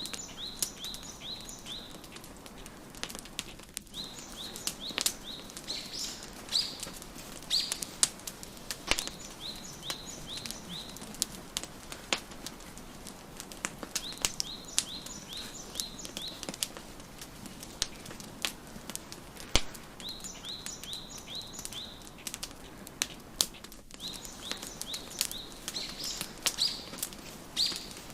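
Wood fire crackling with frequent sharp pops and snaps, over a songbird repeating a phrase of quick, high chirps every few seconds.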